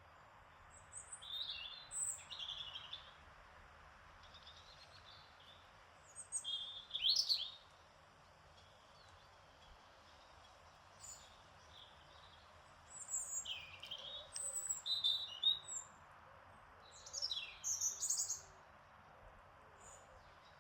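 Small songbirds chirping and singing in short, quick phrases, in four bouts, over a soft, steady background hiss.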